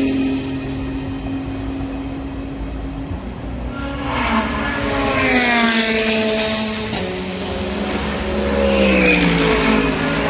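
Race car engines running on track, their pitch climbing and falling as cars accelerate past and lift off, with an abrupt change of sound about seven seconds in.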